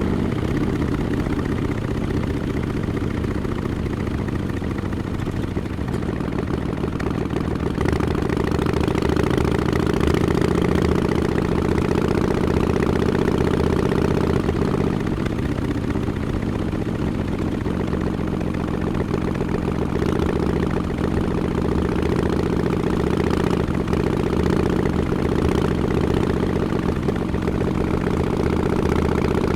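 Harley-Davidson XL1200X Forty-Eight's air-cooled 1200 cc V-twin running steadily through Vance & Hines Short Shots exhausts with the quiet baffle fitted; the pitch shifts a little now and then.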